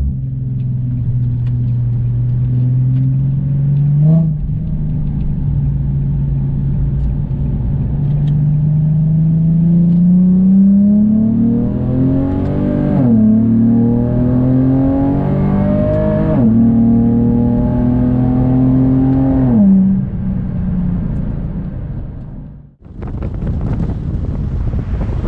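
Car engine and exhaust while driving. The note holds steady, then climbs under acceleration, dropping sharply twice as gears change, holds at a higher pitch and falls away about twenty seconds in. Wind noise on the microphone takes over near the end.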